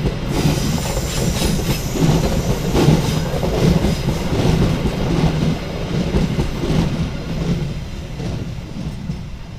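Passenger train coaches rolling past at close range, their wheels clattering over the rails. The sound fades away over the last few seconds as the final coach passes.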